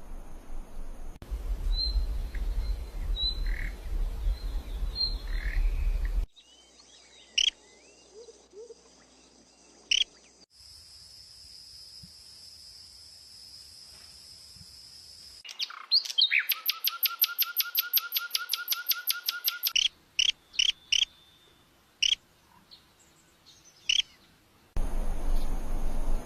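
Small birds calling in a run of abruptly cut clips: high chirps and thin squeaks, first over a low rumble, then a steady high whine for several seconds, then a fast, evenly pulsed trill, then scattered sharp chirps.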